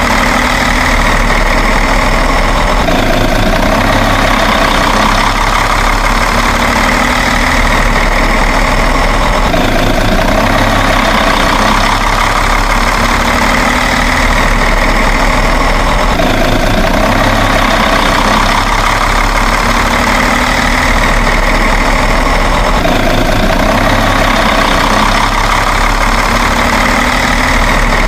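Truck engine idling steadily, a looped recording that repeats about every seven seconds.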